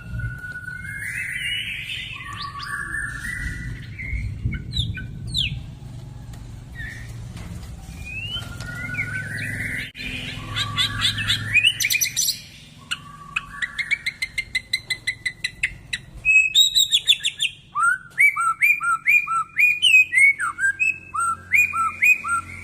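White-rumped shama (murai batu) singing a full, energetic 'gacor' song: loud, varied whistled phrases that slide and trill. From about two-thirds of the way in it switches to a fast run of short repeated downslurred notes, with a faint low hum beneath the first half.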